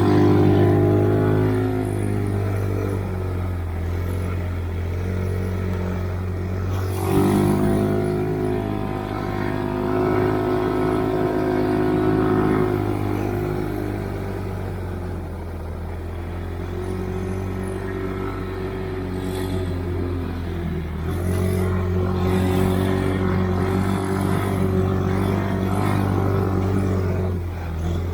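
Stalker snowmobile engine running under changing throttle as it is ridden, the revs rising and falling, with a sharp rev-up about seven seconds in.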